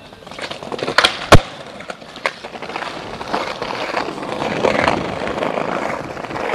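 Skateboard nollie attempt: a sharp pop of the deck about a second in, a much louder slam of the board hitting the ground just after, and another clack. The wheels then roll on with a steady rumble.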